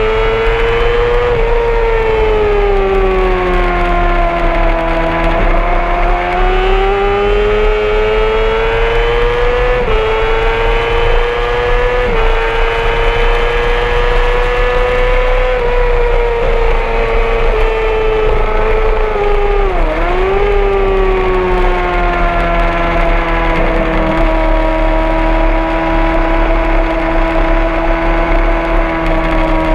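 Honda CBR600RR inline-four sportbike engine held high in the revs at track speed, its pitch rising and falling gently through the corners. About twenty seconds in the revs dip sharply and climb straight back.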